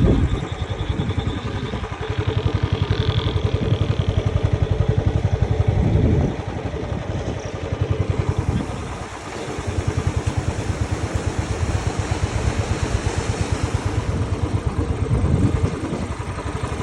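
An engine running with a rapid, even stream of firing pulses. It eases off about six seconds in, dips lowest near nine seconds, then picks up again.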